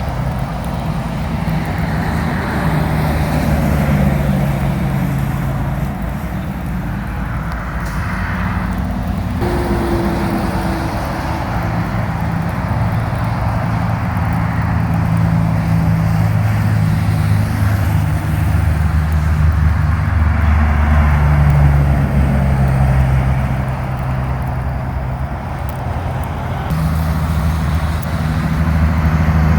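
Heavy diesel trucks and highway traffic passing on a wet road: the engines drone, their pitch shifting several times, over a steady hiss of tyres on wet pavement.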